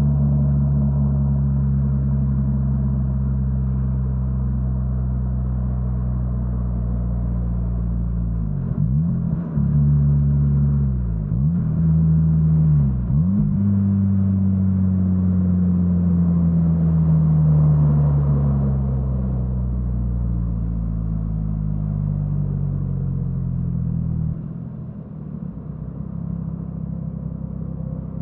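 Mazda RX-8 Type S's Renesis 13B rotary engine running through an Autoexe stainless dual muffler while driving. The engine note dips sharply and recovers three times in quick succession about a third of the way in, typical of gear changes. It then falls slowly for several seconds and drops quieter near the end.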